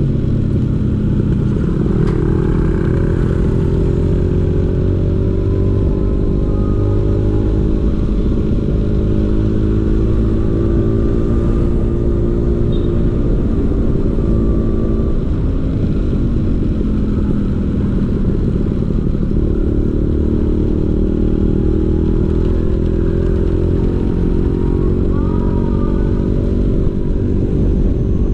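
Vespa PX 150's two-stroke single-cylinder engine running through a DRC Victory racing exhaust, steady in pitch, dropping off about halfway through and picking up again a few seconds later.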